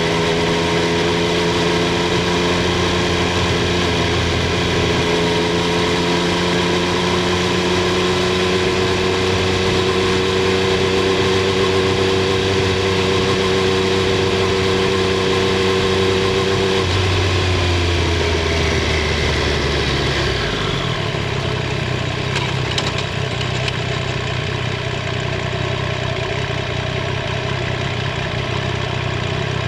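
Triumph Street Triple 765 R's inline three-cylinder engine and exhaust running at steady revs. A little past halfway the revs fall away over a few seconds, then settle into a lower, steady note.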